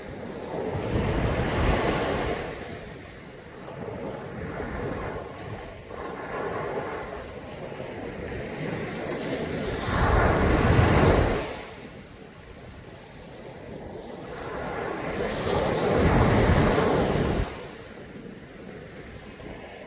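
Caribbean Sea waves breaking on a beach: three swells of surf, the loudest about halfway through, each rising and washing back.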